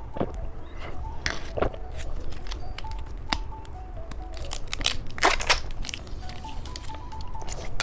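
Close-up crinkling, tearing and crunching of candy and its wrappers, in a string of sharp clicks with a louder scrape-like stroke about five seconds in, over soft background music.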